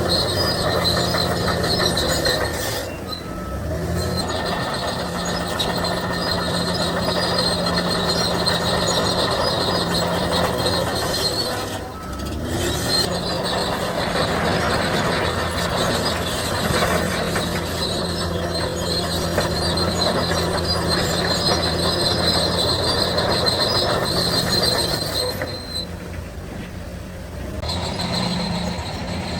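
Crawler bulldozer working, its diesel engine running steadily under load while the steel tracks squeal and clank. The sound briefly drops about three seconds in, again around twelve seconds, and for a couple of seconds near the end.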